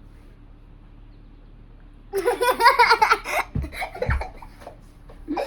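A young girl laughing and squealing, starting about two seconds in, as she is chased and caught in play, with two low thuds about a second later.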